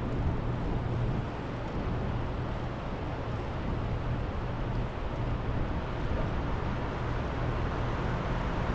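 Steady rushing noise of the fast-flowing river current, with no single event standing out.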